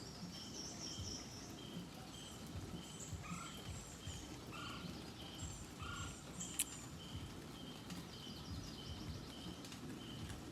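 Birds calling: a short high note repeats evenly a little under twice a second, with scattered higher chirps over it and three lower calls near the middle.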